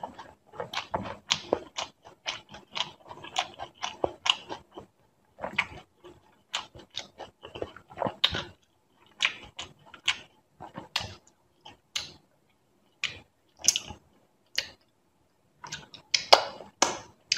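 Close-miked chewing of a mouthful of pani puri with lips closed: a run of short, wet mouth clicks, dense at first and then sparser. A louder burst of clicks near the end comes from licking food off the fingers.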